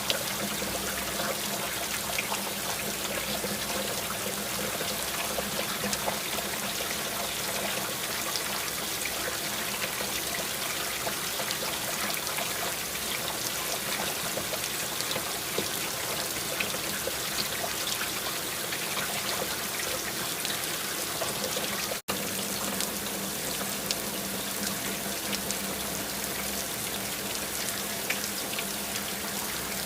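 Steady rain falling: an even hiss full of small scattered drop ticks, over a faint steady low hum. The sound drops out for an instant about two-thirds of the way through.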